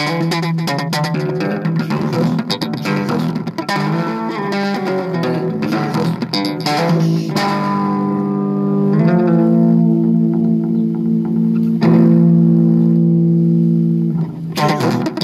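Bass guitar played solo: a quick run of plucked notes, then long held notes left ringing, changing once, before quick playing starts again near the end.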